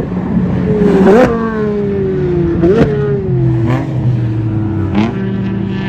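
Race car engines running on a circuit. One engine's note slides slowly down and then jumps sharply back up, about four times, each jump with a short crack, over a steady low drone from other cars.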